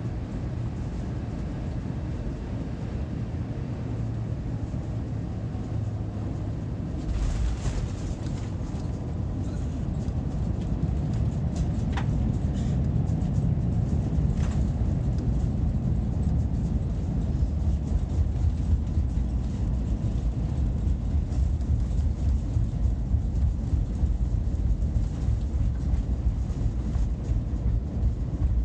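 Airbus A350-900 airliner during landing: a steady low rumble that steps up about seven seconds in and grows louder from there, with a brief rising chirp near the middle.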